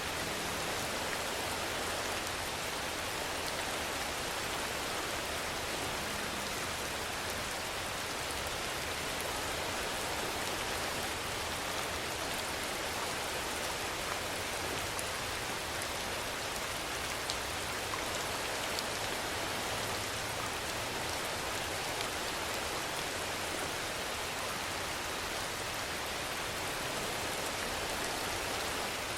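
Steady rainfall, an even hiss with a few sharper drop ticks here and there.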